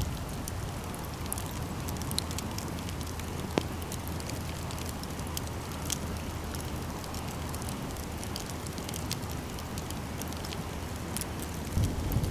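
Campfire crackling: a steady rush of burning with scattered sharp snaps and pops, the loudest pop about three and a half seconds in, and a dull low thump near the end.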